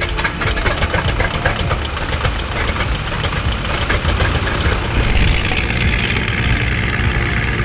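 Piston aircraft engine running, with a rapid beat of firing pulses that starts suddenly; a higher hiss grows about five seconds in.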